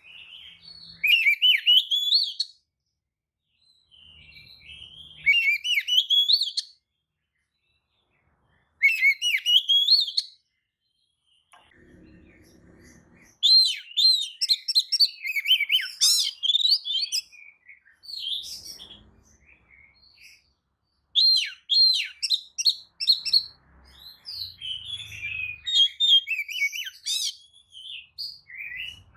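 Oriental magpie-robin (kacer) singing: phrases of fast, sliding whistles and chirps, separated by short pauses at first and running almost without a break through the second half.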